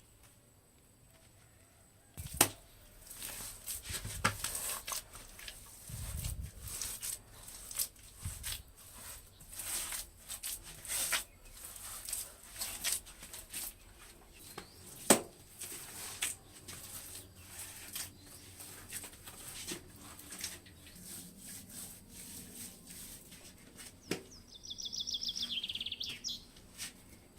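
Irregular rustling, swishing and snapping with a few sharp knocks, about two and a half seconds in and again midway; a bird gives a short rapid high trill near the end.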